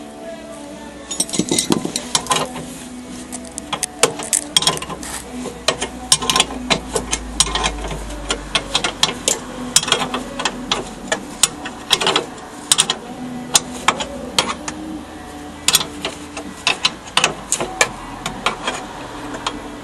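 Hand tools and metal engine hardware clicking and clanking in an irregular run of sharp knocks.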